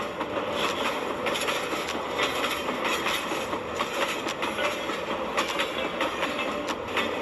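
Train running along the track, with a steady rattle and many quick clicks of wheels passing over the rail joints.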